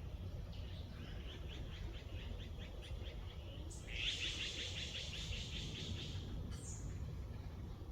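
Songbird singing: a fast trill of rapid repeated notes, then a louder, fuller trill about four seconds in that lasts a couple of seconds, over a low steady rumble of background noise.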